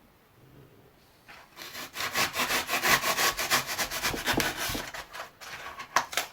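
A blade sawing through hardened expanding spray foam in rapid back-and-forth strokes, starting about a second in and stopping with two sharper strokes near the end. The foam has set hard, so it is firm enough to cut.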